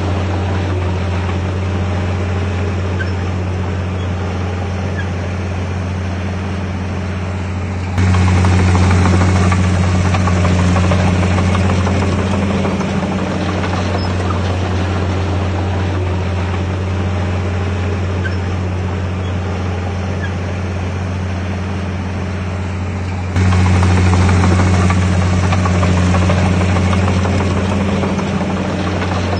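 Heavy diesel engine running steadily with a deep low hum. It gets abruptly louder about eight seconds in and again near the end, then eases back down.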